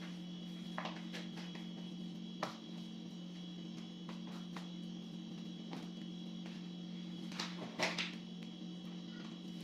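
A steady electrical hum, broken by scattered short clicks and rustles of handling, the loudest a cluster of sharp knocks near the end.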